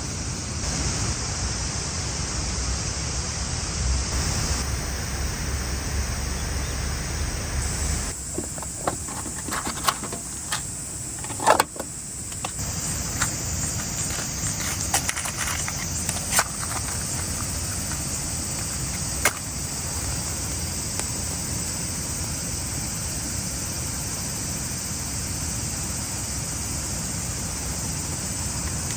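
Steady outdoor background noise, with a scattering of sharp clicks and knocks from about eight to twenty seconds in, the loudest a little before twelve seconds.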